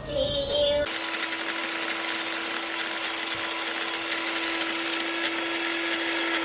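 Small baby-food blender motor running steadily, pureeing steamed sweet potato with added water. It starts about a second in, an even whirring with a constant hum.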